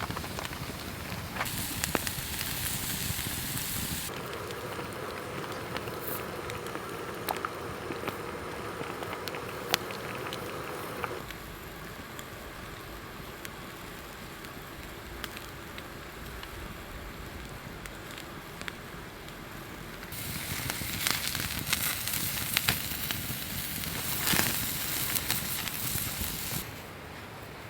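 Campfire crackling, with scattered sharp pops over a steady hiss; the background changes abruptly several times as the shots cut.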